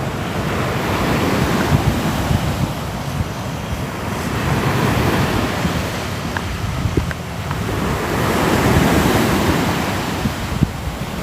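Ocean waves washing onto a shore, the rush swelling and easing about three times, with wind rumbling on the microphone.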